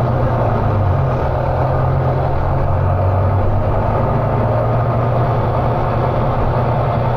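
Volvo B9TL bus's nine-litre six-cylinder diesel engine running with a steady low drone, its note stepping up slightly about a second in.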